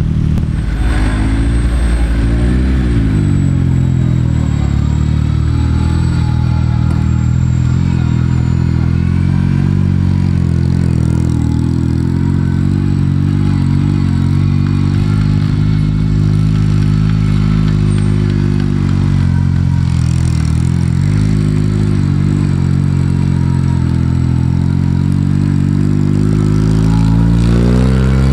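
Sporting trial car's engine pulling under load, its note rising and falling with the throttle. It drops and picks up again about two seconds in and again about twenty seconds in, and climbs near the end.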